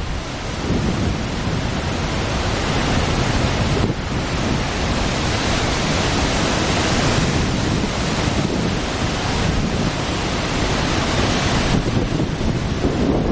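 The Great Falls of the Passaic River running high after a hurricane: a steady, loud rush of heavy falling water, with wind buffeting the microphone.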